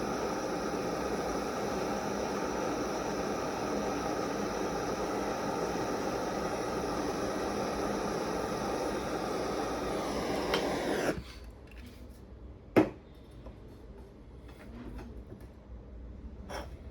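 Soldering torch flame running with a steady hiss while heating the coins, cut off suddenly about eleven seconds in. A sharp knock follows a little later, and a fainter click near the end.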